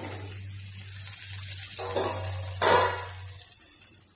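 Tomatoes, green chillies and curry leaves sizzling in oil in an open steel kadai, a steady hiss, with a loud clatter about two and a half seconds in.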